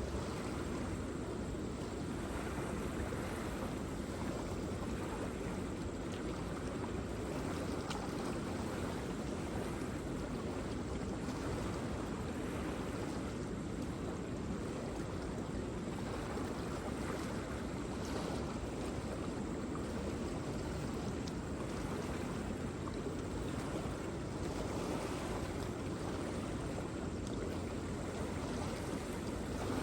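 Waterfall: a steady, even rush of falling water, deepest in the low range.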